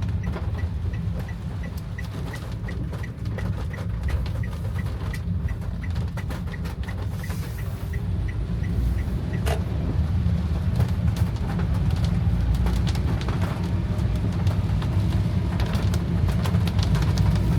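Rain spattering on a car while a low, steady engine and road rumble fills the cabin. A light ticking, about three a second, runs for the first half and then stops, and the rumble grows a little louder after that.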